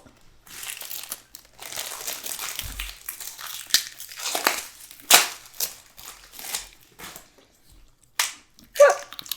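Plastic wrapper of a fortune cookie crinkling and tearing as it is worked open, in irregular rustles with a few sharp crackles.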